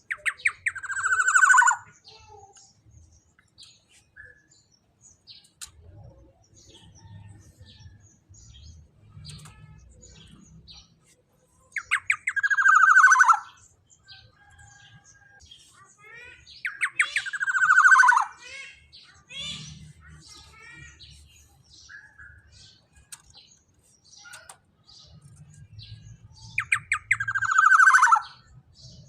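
Black-naped oriole giving four loud, harsh calls several seconds apart. Each starts with a quick stutter of notes and ends in a falling nasal note. Faint chirps and ticks come in between.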